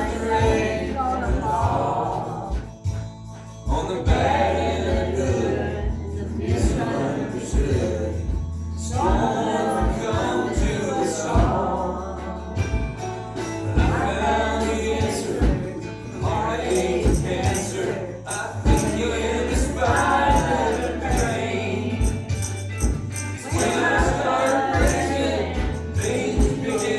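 Song with a group of voices singing over a steady bass line and regular percussion.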